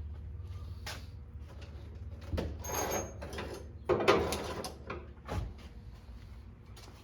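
Scattered clicks and knocks with two short rasping, scraping stretches in the middle, the second the loudest, and a thump soon after, over a steady low hum.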